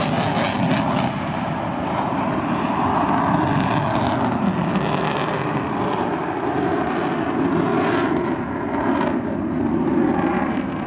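Loud, steady jet noise from the F-35 Lightning II's single F135 turbofan as the fighter flies its demonstration, swelling a little at times.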